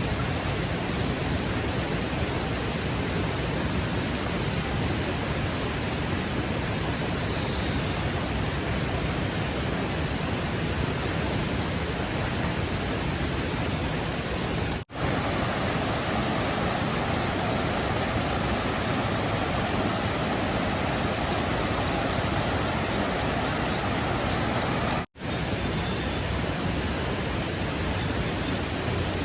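Rushing stream water, a steady dense wash of noise that breaks off for an instant twice, with a slightly brighter tone after the first break.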